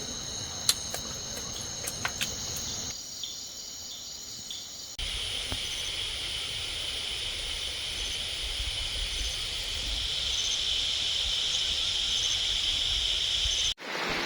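Steady high-pitched insect chorus, its sound changing abruptly a few times, with a few faint clicks in the first couple of seconds.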